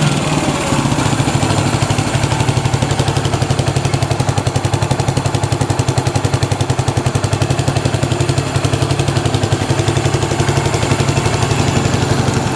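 Yamaha SR400's air-cooled single-cylinder four-stroke engine idling steadily, with a rapid, even beat of exhaust pulses.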